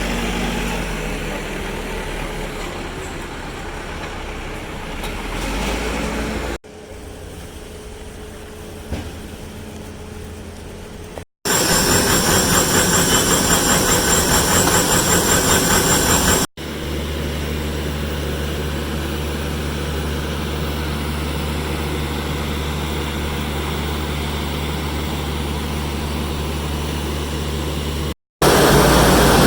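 Heavy diesel construction machinery running on an asphalt paving job, heard in several short clips with abrupt cuts between them. The longest stretch, in the second half, is a steady low engine drone.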